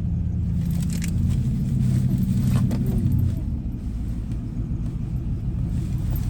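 Car engine idling, a steady low rumble heard from inside the cabin, easing slightly about three seconds in, with a couple of faint clicks.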